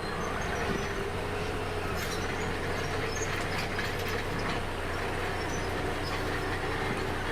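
Bulldozer's diesel engine running steadily under work, with scattered metallic clanks and squeaks from its crawler tracks.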